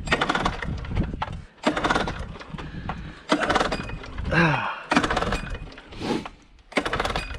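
Repeated pulls on the recoil starter of an old small gasoline engine with a varnished carburetor, a burst of noise about once a second, with grunts of effort in between; the engine does not take.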